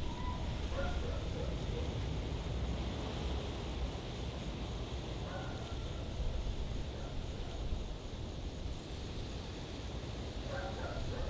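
Steady low rumble of wind on the microphone outdoors, with a few brief faint calls about a second in, around the middle and near the end.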